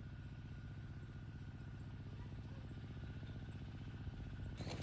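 A small engine running steadily with an even low pulse. Near the end, a hissing rush joins it.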